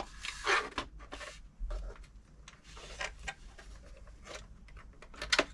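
Light clicks and short scrapes of small metal parts being handled and fitted on a domestic sewing machine during reassembly, with a sharp click near the end.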